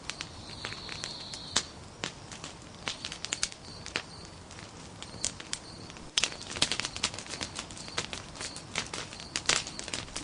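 Nodya log fire crackling with irregular sharp pops, several loud ones clustered in the second half, and a brief high hiss about half a second in.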